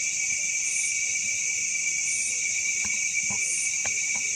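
Steady insect chorus: continuous high-pitched buzzing, with a higher note pulsing roughly every second and a half and a few faint clicks.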